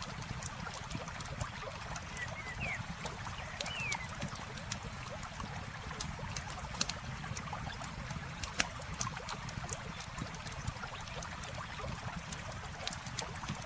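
Wood campfire crackling with frequent sharp pops and snaps, over a steady wash of running water. A few short high chirps come about two to four seconds in.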